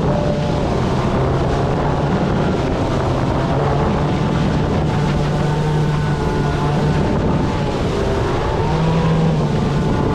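Small electric jet boat running on the water: a steady motor hum under continuous rushing noise.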